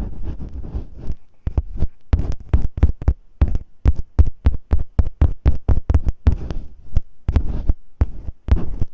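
Masking tape worked against a microphone in ASMR ear-cleaning style: dense close crackling with deep thumps, then separate sharp crackling strokes a few a second, turning dense again near the end.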